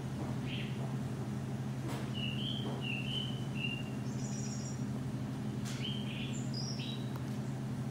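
Small birds chirping in short, high notes several times, over a steady low hum.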